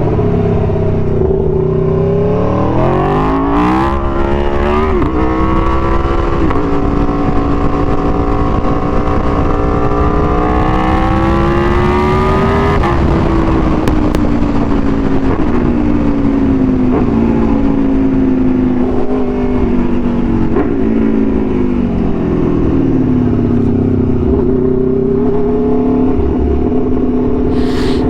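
Aprilia Tuono V4 1100's V4 engine through an SC-Project exhaust, accelerating hard with two quick upshifts in the first few seconds, then a long rising pull. About halfway through the revs drop as the throttle closes, and the engine runs on at varying, then steady, cruising revs with wind rush.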